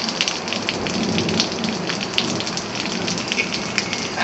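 Heavy thunderstorm rain falling steadily, with dense sharp drop strikes close by.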